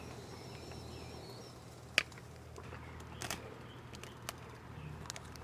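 Tableware clinking while stew is served: one sharp clink with a brief ring about two seconds in, and a few softer taps later. Under it runs a low steady hum, with a faint high chirp in the first second or so.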